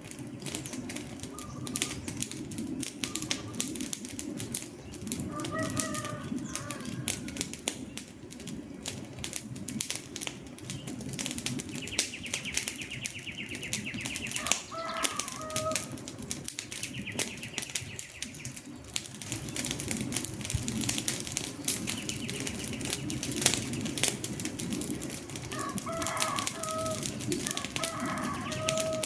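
Wood fire crackling: a dense run of sharp snaps and pops over a steady low rush of flame. Several times a bird calls in short groups of notes.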